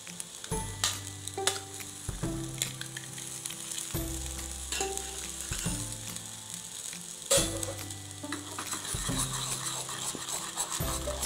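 An egg sizzling as it fries in oil in a pan, with a spatula tapping and scraping against the pan as the egg is broken up and stirred. There is one sharp clack about seven seconds in.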